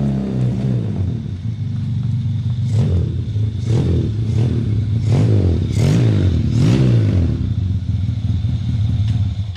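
Yamaha Jupiter Z underbone motorcycle with a converted two-cylinder engine, running and blipped through about five quick revs, each rising and falling in pitch.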